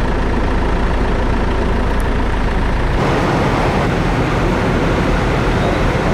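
Loud steady rumble and roar at a large, fully involved building fire.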